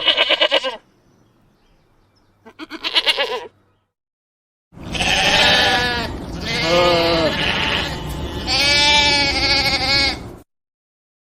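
Goat bleating: two short bleats, then after a pause three longer, wavering bleats over a noisier background.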